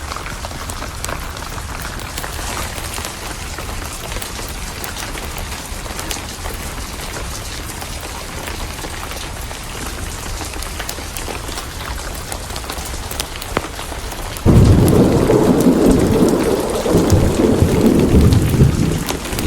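Steady rain with pattering drops. About three-quarters of the way through, a loud thunderclap breaks in suddenly and rumbles for about five seconds.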